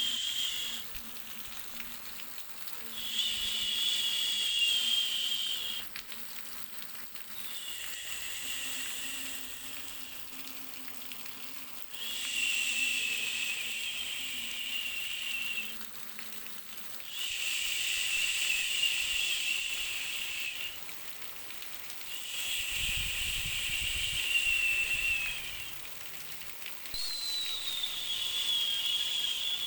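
A soothing noise track: a high, slightly falling whistling hiss that comes in repeated bouts of about three seconds, with short gaps between them.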